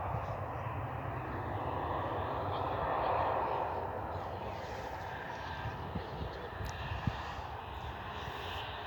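Jet airliner engines passing, a steady rushing roar that swells to its loudest about three seconds in and then slowly fades.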